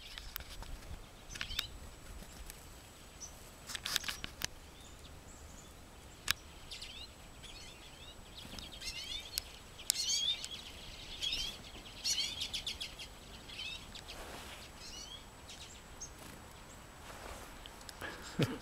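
Black-capped chickadees calling, quick high chirping notes in clusters, busiest in the middle, with a few short sharp clicks earlier on.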